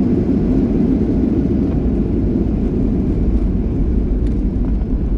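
Steady rumble inside the cabin of a Boeing 737-800 on its landing rollout: its CFM56 engines and the wheels on the runway as the airliner slows after touchdown.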